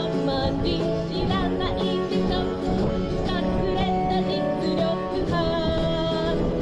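Live pop song with a singing voice over acoustic guitar, the voice wavering with vibrato. Wind buffets the microphone with a low rumble underneath.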